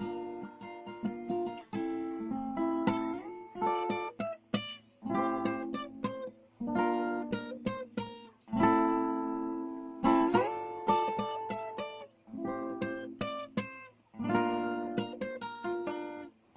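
Acoustic guitar strummed in short rhythmic phrases of chords, with brief breaks between them.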